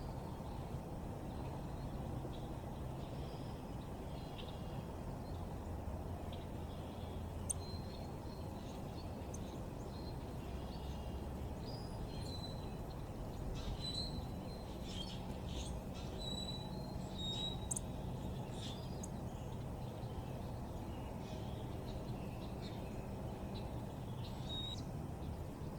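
Backyard birds chirping in short, scattered calls, busiest in the middle, over a steady low background rumble.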